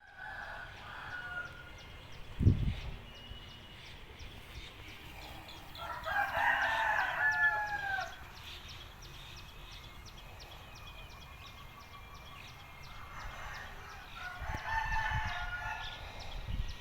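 A bird calling: one long crow-like call of about two seconds, about six seconds in, with shorter calls at the start and near the end. A fast, steady ticking runs underneath, with a single low thump early on.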